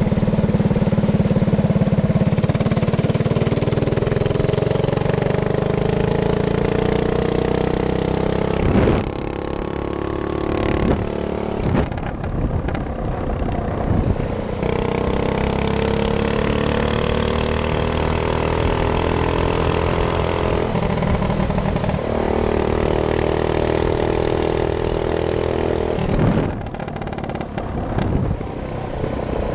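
Minibike's small engine running under throttle, its pitch climbing as it speeds up, with the throttle let off about nine seconds in and again near the end.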